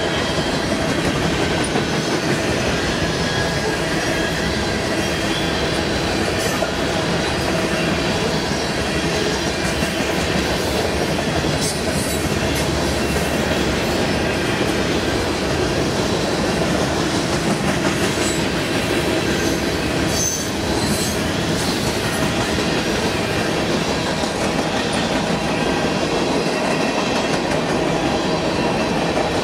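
Freight cars (tank cars and covered hoppers) rolling past at speed: a steady rumble of steel wheels on the rails, with a few brief high-pitched squeaks around the middle.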